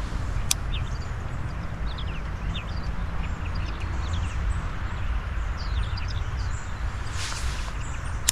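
Outdoor ambience: birds chirping in short, quick calls over a steady rushing background with a low rumble. A sharp click comes about half a second in and a brief hiss near the end, likely from lighting the oil-soaked paper on the tuna can.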